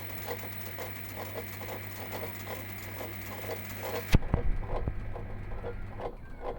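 Samsung washing machine's direct-drive motor rotor turning with a rhythmic grinding scrape, about four to five pulses a second, over a steady hum. About four seconds in there is a loud knock, the hiss drops away, and a few softer knocks follow while the grinding goes on.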